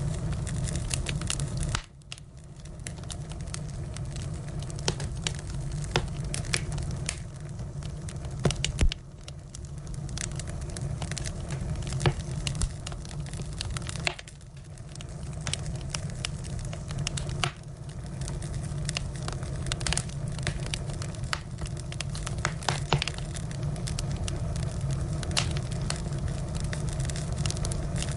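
Wood fire burning: firewood crackling with frequent sharp pops over a steady low rumble. The sound drops away suddenly a few times and swells back up.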